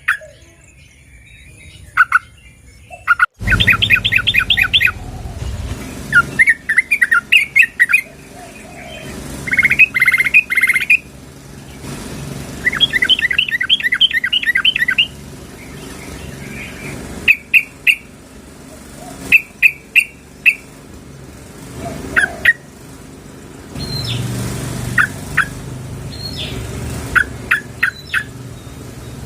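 Yellow-vented bulbul (trucukan) calling: repeated bursts of quick, bubbly chattering notes, each phrase a second or two long with short pauses between; the uploader presents it as a female calling to a male.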